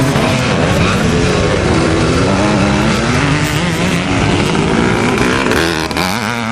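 Vintage two-stroke ČZ motocross motorcycles running on the track, their engines rising and falling in pitch as the riders rev through the gears, with more than one engine heard at once. The sound drops a little near the end.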